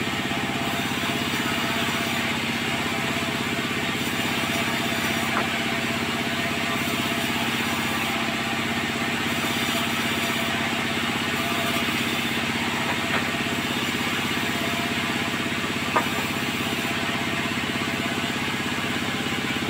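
Sawmill machinery running steadily with a constant hum and a dense mechanical noise, with a few brief sharp knocks.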